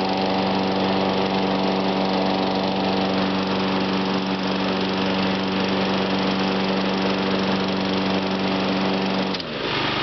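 John Deere riding mower's engine running steadily at a constant speed. Near the end there is a click and the engine's pitch drops sharply as it slows down.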